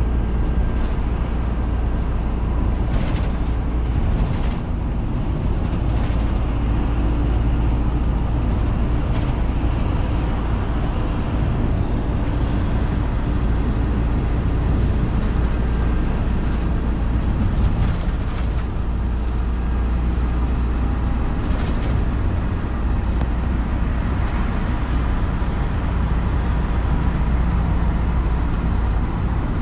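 City bus running on the road, heard on board: a steady low drone from the engine and drivetrain with a few faint fixed tones above it, and several brief clicks or rattles scattered through.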